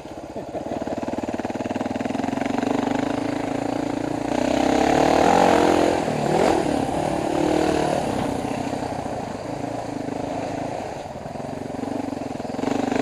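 Dual-sport motorcycle engine running on a trail ride, pulling harder and louder for a few seconds around the middle, then easing back to a steadier note.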